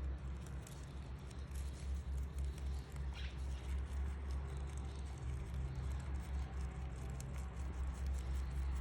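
Rabbits chewing fresh greens: quick, faint crunching clicks over a steady low rumble, with one short high chirp about three seconds in.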